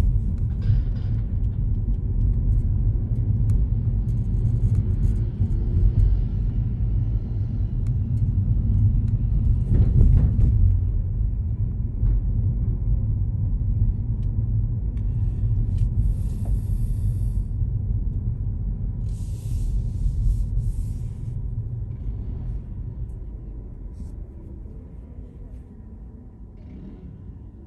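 Low, steady rumble of a car driving on city roads, with a couple of brief hisses past the middle; the rumble dies down over the last few seconds.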